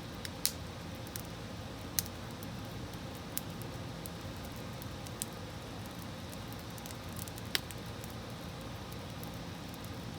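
Wood fire crackling in a fireplace: a steady low hiss and rumble with sharp, scattered pops, the loudest about half a second, two seconds and seven and a half seconds in.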